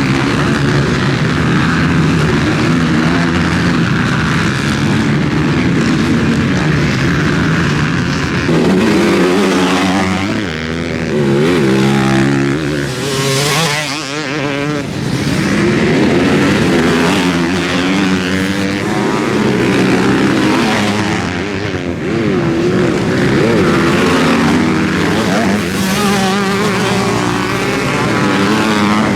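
Motocross bikes racing around a track, their engines revving up and down in pitch as the riders accelerate and change gear. Near the middle, one bike passes close.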